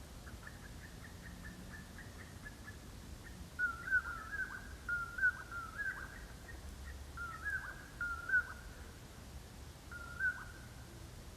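A bird calling outdoors: a run of short, high notes, faint at first, then louder ones in quick groups through the middle, and one more call near the end.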